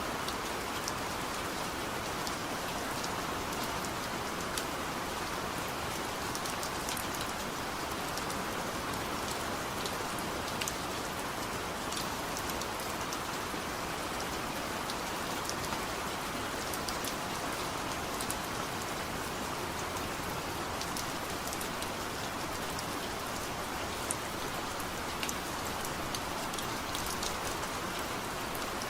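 Heavy rain falling steadily, a dense even hiss of rain with many individual drops ticking sharply on a surface.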